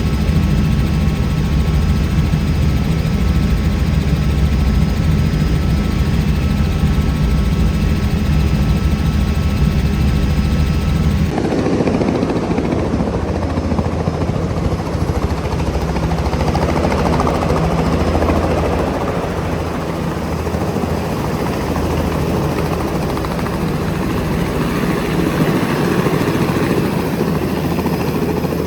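Helicopter running, a steady rotor and turbine sound. About a third of the way in it changes abruptly from a humming, tonal drone to a broader, noisier whirr.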